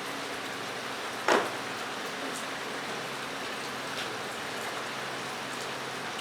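Steady hiss of rain drumming on a metal roof overhead. About a second in comes one sharp, loud clack, with a few faint ticks later.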